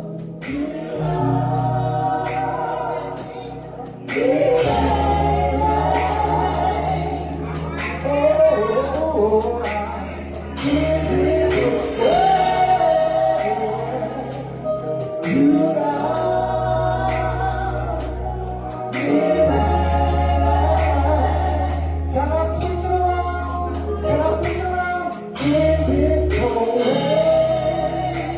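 Gospel song performed with a band: a singer's voice over sustained deep bass notes and drum hits.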